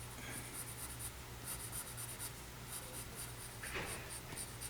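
Graphite pencil sketching on paper: quick light scratching strokes, several a second, as lines are laid down.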